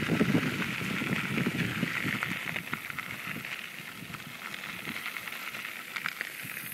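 Riding noise from a bicycle on the move: a steady hiss with many small irregular rattles and knocks, growing quieter over the first few seconds.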